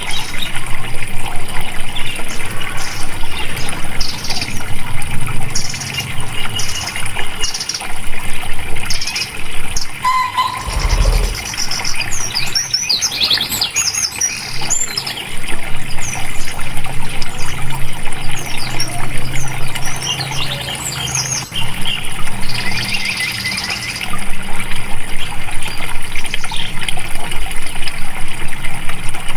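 Running water with songbirds chirping and trilling over it.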